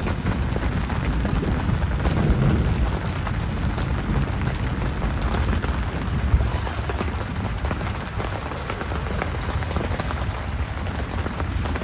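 Heavy rain falling steadily, with many drops ticking on a surface over a dense low rush.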